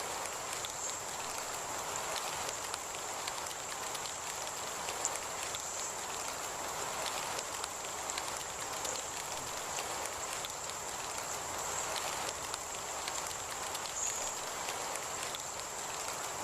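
Heavy rain falling steadily, with scattered ticks of drops striking a surface, over a steady thin high-pitched tone.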